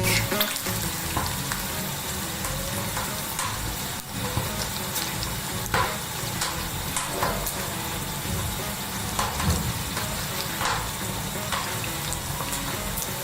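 Eggs frying in hot oil in a skillet, sizzling steadily with scattered small pops.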